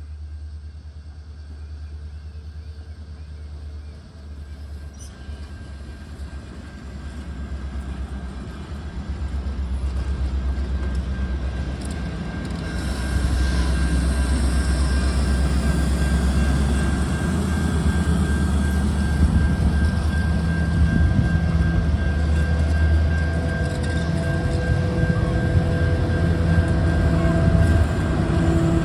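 EMD diesel-electric locomotive engine rumbling, with a steady whine above it, growing steadily louder over the first half and then holding loud as the train draws near or pulls past.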